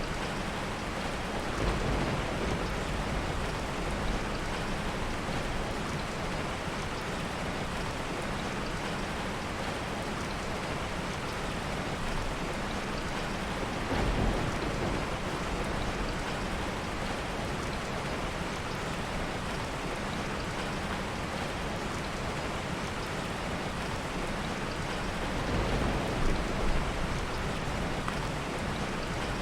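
Heavy rain falling steadily, with soft thunder swelling briefly three times, about two seconds in, near the middle and near the end.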